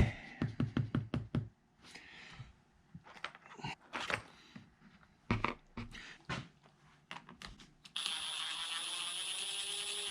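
Hand work on a plastic picture frame: a quick run of about eight knocks, then scattered single knocks and clicks. About eight seconds in, a small electric motor starts abruptly and whirs steadily with a high whine for about two seconds.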